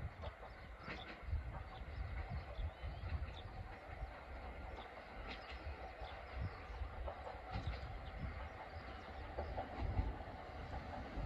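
A train approaching along the line from a distance, its rumble on the rails growing louder toward the end.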